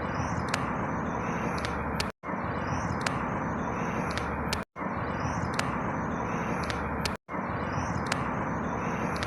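Outdoor ambience: a steady background rumble with a few faint high chirps. A clip of about two and a half seconds repeats, dropping to silence for an instant between repeats, three times.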